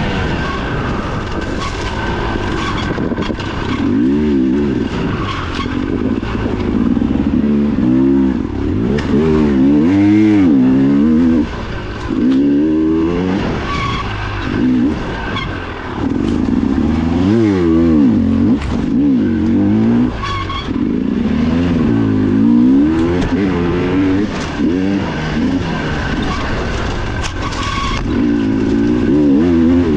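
Dirt bike engine heard from on board, revving hard and dropping again over and over as the rider works the throttle and gears on a race trail. Occasional short knocks come through from the bike over rough ground.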